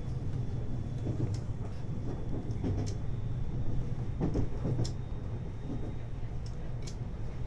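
521 series electric multiple unit running, heard from inside the car: a steady low rumble with scattered clicks and knocks.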